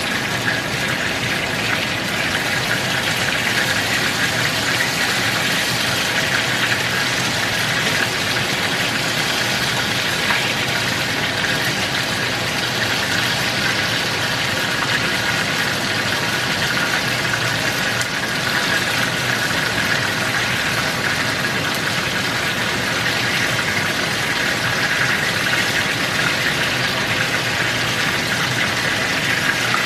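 Hot oil sizzling and crackling steadily as food deep-fries.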